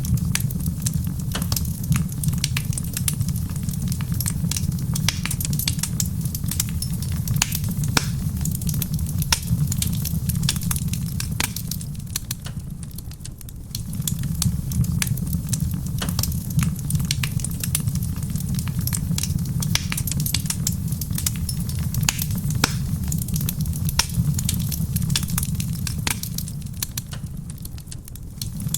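Wood fire in a stone fireplace crackling, with many sharp pops over a low steady rumble, and soft rain pattering in the background. The fire dips in level briefly about halfway through and again near the end.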